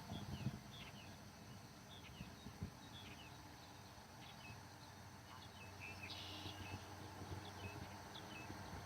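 Birds chirping faintly in the background: short, high notes repeated irregularly throughout.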